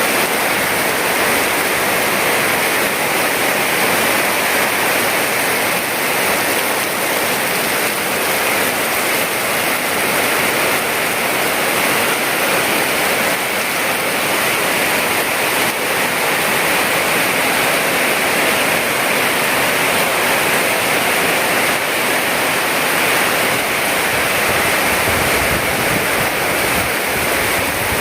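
Heavy tropical downpour: dense rain pouring steadily without a break.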